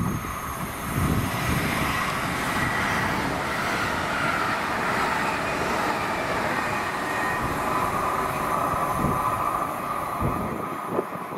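A train passing through: a steady rush of wheels on rail with a whining tone over it, dropping away just before the end.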